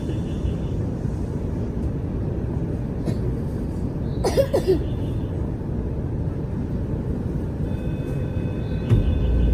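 Inside a moving Aonami Line electric train: a steady low rumble of the car running on the rails. A brief short sound comes about four and a half seconds in. Faint steady whining tones join near the end.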